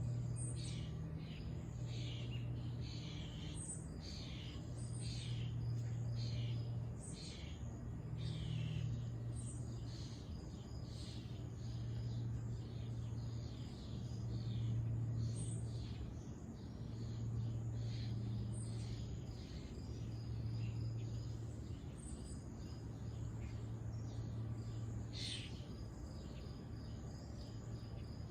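Many short, quick chirps of small birds and insects, repeating throughout, over a low hum that swells and fades in stretches of one to two seconds.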